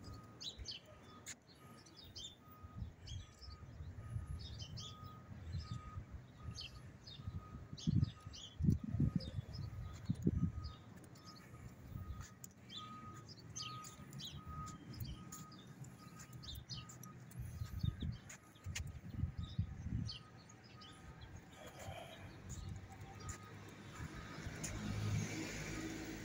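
Small birds chirping outdoors, short high calls scattered throughout, with a faint repeated high note about twice a second that stops a few seconds before the end. Low rumbling comes in twice, about eight seconds in and again near eighteen seconds.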